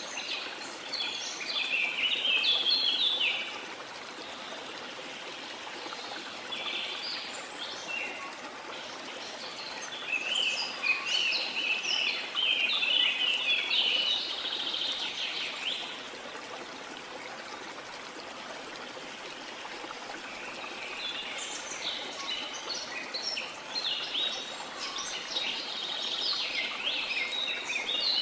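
Steady rush of a waterfall with tropical forest birds singing over it in bouts of quick, chattering high notes that come and go.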